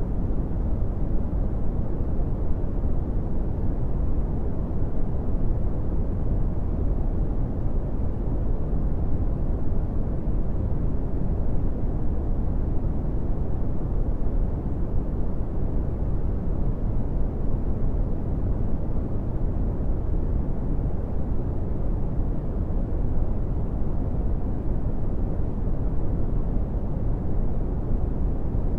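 Steady brown noise: an even, deep rumbling hiss with most of its energy in the low end and little above about 1 kHz, unchanging throughout.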